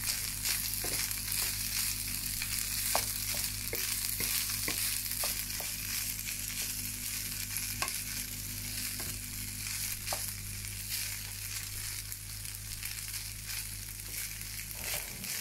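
Fried rice sizzling in a non-stick pan while a wooden spatula stirs and turns it, with irregular light taps and scrapes of the spatula against the pan. A steady low hum runs underneath and stops near the end.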